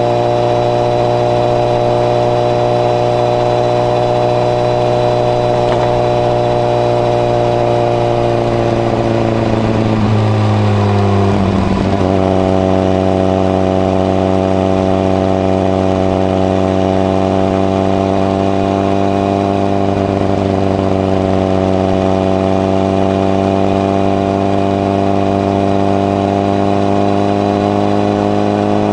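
Honda CBR1000RR (SC57) inline-four engine running through a modified Moriwaki muffler with the baffle fitted, at steady riding revs. About eleven seconds in the note dips briefly and wavers, then settles steady again and rises slowly toward the end.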